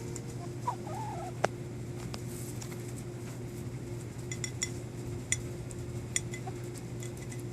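Hens pecking at a cracked egg: sharp beak taps, one about a second and a half in and a scattered run of them in the second half, with a soft cluck about a second in, over a steady low hum.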